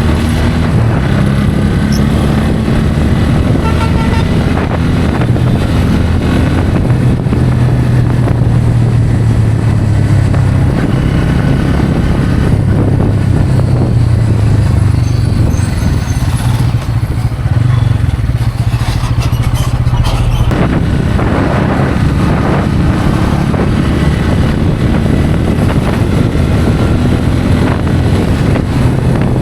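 Bajaj Pulsar N160's single-cylinder engine running under way, with wind and road noise. The engine note eases back for several seconds in the middle, then picks up sharply about twenty seconds in.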